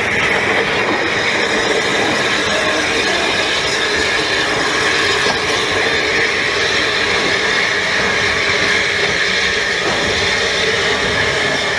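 Ffestiniog Railway narrow-gauge train running on the rails: a steady rolling rumble with a constant high tone above it.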